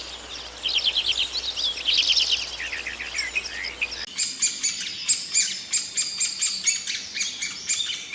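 Small birds chirping in quick runs of short trilled notes. About halfway through it changes abruptly to a different, higher and faster series of sharp chirps, as from another bird.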